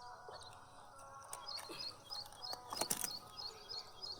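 A bird calling in a quick series of short high chirps, about three a second, starting about a second and a half in, over faint outdoor background noise. A few sharp clicks near the middle are the loudest sounds.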